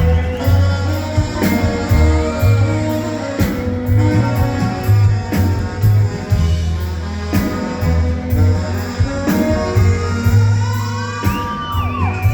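Rock band playing an instrumental passage: guitar over steady bass notes and a drum kit, with a lead line bending up and down in pitch near the end.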